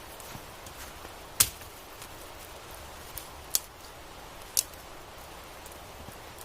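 Sharp cracks of wood being chopped, four or five irregular strikes, the loudest about a second and a half in.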